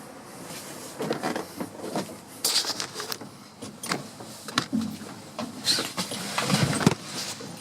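Irregular knocks, clicks and rustles of handling inside a truck cab, with no engine running.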